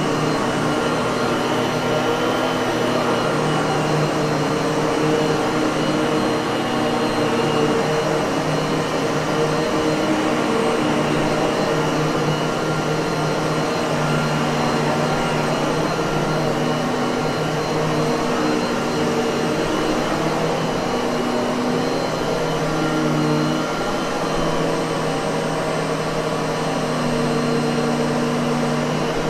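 Miele vacuum cleaner motor running continuously: a steady rushing whir with a constant hum, its pitch wavering slightly now and then.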